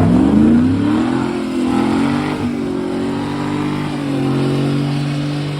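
Truck engine revving up during a burnout: the pitch climbs over the first second or so, then is held at high revs.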